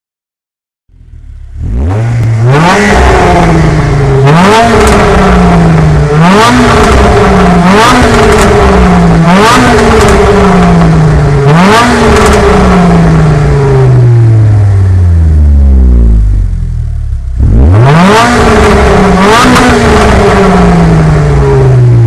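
Renault Clio RS 200 Cup's 2.0-litre 16-valve four-cylinder engine, heard through a Friedrich cat-back exhaust with the front silencer removed. It starts about a second in and is revved hard and loud, the pitch jumping up sharply and falling away about every two seconds, easing off for a moment about three-quarters of the way through before climbing again.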